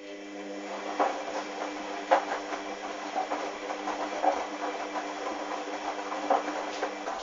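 Hoover washing machine's motor turning the drum during a wash: a steady hum, with wet towels and sudsy water sloshing and thudding irregularly, until the drum stops suddenly near the end.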